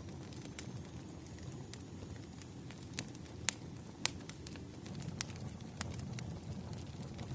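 Wood fire crackling: irregular sharp pops and snaps over a low, steady rumble, the loudest pop about three and a half seconds in.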